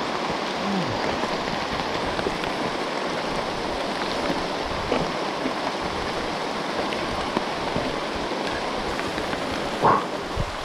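Heavy rain falling steadily, with scattered drops ticking close by and one brief louder knock near the end.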